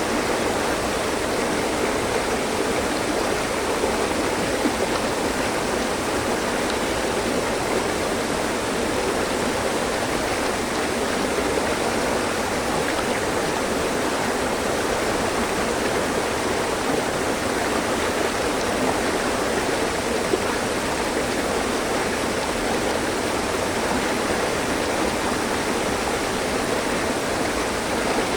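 A mountain stream, water rushing and splashing steadily over rocks.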